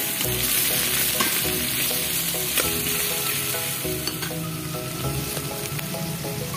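Shrimp and crabs sizzling in hot oil in a stainless steel pot, stirred with metal tongs that click against the pot now and then.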